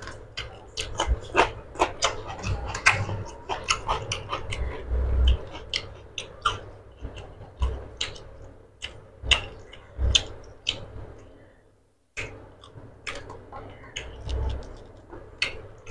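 Close-up eating sounds: wet chewing and lip smacking as rice and curry are eaten by hand, as irregular sharp clicks over a few soft low thumps. The sound cuts out briefly about three quarters of the way through.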